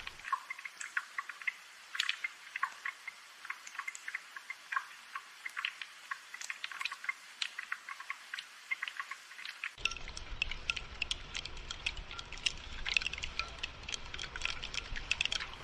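Rain pattering, with many individual drops ticking irregularly over a light hiss. A low rumble joins about ten seconds in.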